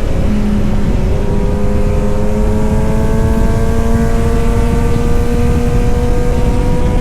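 Kawasaki Z900 inline-four engine and exhaust running under load. The note drops just after the start, then rises slowly and steadily.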